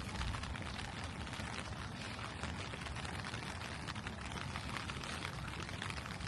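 Steady rain falling: a dense, even patter of many small drops.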